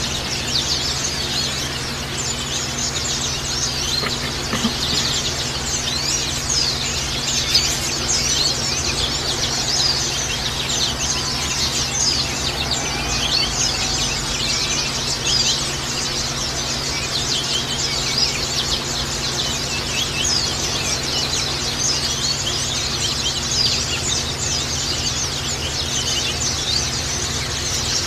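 A flock of white-eyes (pleci) chirping and twittering nonstop in a dense chorus of quick high notes, over a steady low hum. This is a bird-keepers' 'therapy' recording meant to stimulate caged white-eyes to sing.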